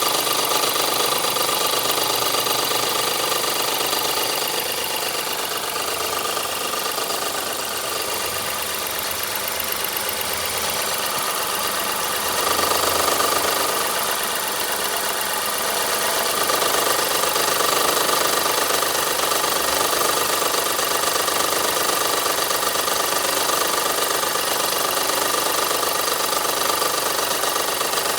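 Skoda Octavia 1.0 e-TSI three-cylinder engine running at idle, with a steady tonal noise from the accessory belt drive of its 48-volt mild-hybrid system: the sign of a bad belt tensioner. The noise swells a little twice, about halfway through and again a few seconds later.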